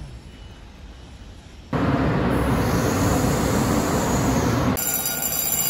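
Electric commuter train at a station platform: a loud, even rushing noise of the train running that starts abruptly about two seconds in. Near the end it gives way to a quieter sound with several steady high ringing tones.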